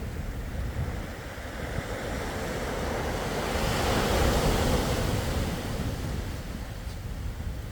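Sea waves washing on a shore: one wave swells up to a peak about halfway through and then draws back, with wind on the microphone.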